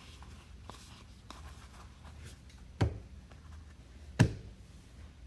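Trading cards being handled and flipped through, with light rustling, and two sharp knocks on the table: one about three seconds in and a louder one about a second and a half later.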